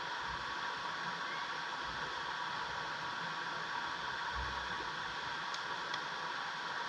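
Steady road and engine noise inside a moving car's cabin, an even hiss over a low rumble.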